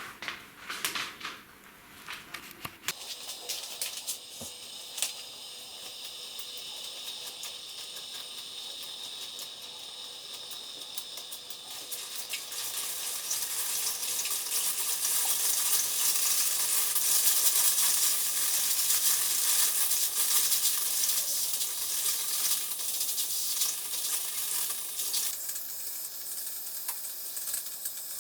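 Steam hissing and sizzling from a small model steam engine's boiler as it heats over the fire. A few light clicks come in the first seconds. The hiss grows louder about halfway through and eases a little near the end.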